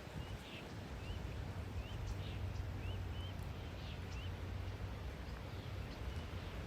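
Steady low outdoor rumble with a run of short, high, thin chirping calls, about seven of them over the first three and a half seconds.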